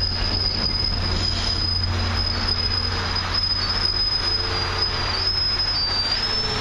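Commuter rail passenger coaches rolling slowly past as the train slows to a stop, with a low rumble and a steady high-pitched squeal that wavers slightly in pitch near the end.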